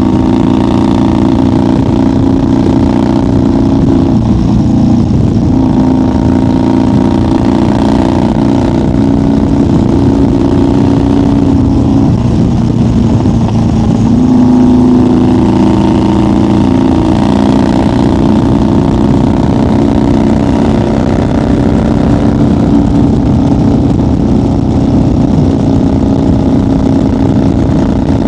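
1990 Harley-Davidson FXR's 1340 Evolution V-twin running steadily at highway cruising speed. It swells briefly about halfway through.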